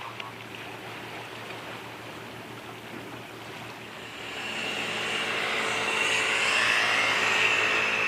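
A boat's engine running with water rushing and splashing, swelling louder from about four seconds in as it draws near.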